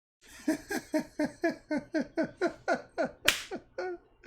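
A person laughing in a quick, even series of short "ha" bursts, about four a second, each falling in pitch, with a sharp click about three seconds in.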